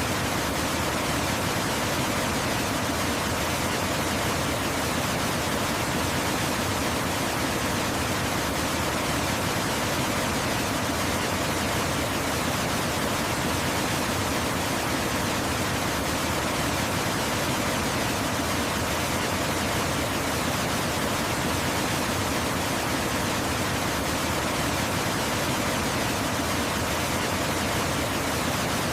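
Waterfall: steady, unbroken rushing of falling water, an even hiss spread from low to high pitch with no change.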